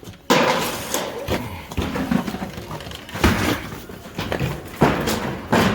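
A run of heavy crashes and clattering, with rough scraping in between, like debris tumbling and banging down a slide; about five hard hits, the first a sudden loud crash about a third of a second in.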